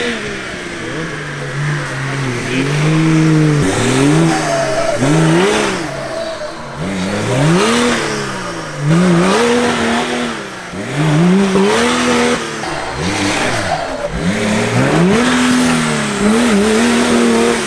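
Engine of an off-road competition 4x4 revving up hard and dropping back, over and over, roughly every two to three seconds, as it claws through a deep mud pit.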